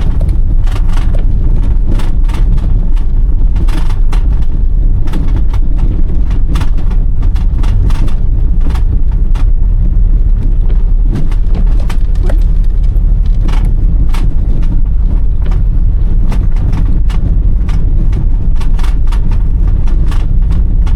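1993 Toyota Corolla 2.0 diesel driving on a muddy, potholed dirt road: a steady low rumble of engine and tyres, broken by frequent sharp knocks and rattles as the car jolts over the rough ground.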